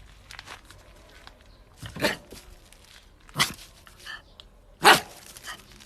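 A dog barking three times, about a second and a half apart, each bark short and sharp, the last one the loudest.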